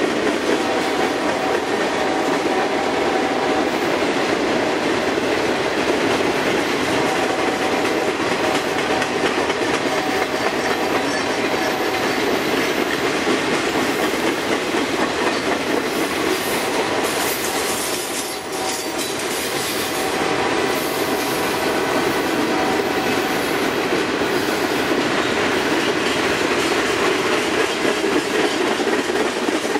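Freight train of boxcars and covered hoppers rolling past, with a steady rumble and rattle of steel wheels on rail. A faint ringing tone comes and goes.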